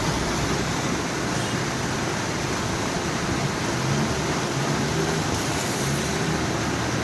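Swollen monsoon river in flood, rushing steadily with a low rumble underneath.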